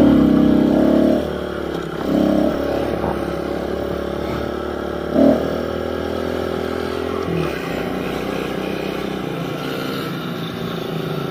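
Pit bike's small single-cylinder engine running under throttle. It revs hard in the first second, surges briefly about two and five seconds in, then runs steadily. The deep low end drops away about two-thirds of the way through.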